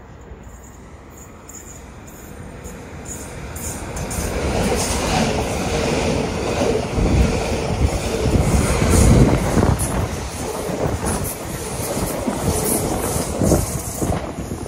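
Electric multiple unit passing close by at speed: a rush of wheel and body noise that builds, then holds loud through the middle, with a regular clicking of wheels over rail joints.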